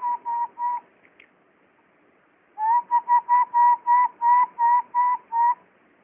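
Whistled imitation call: short whistled notes at one steady pitch, about four a second. A few notes sound at the start, then a run of about a dozen after a pause of nearly two seconds.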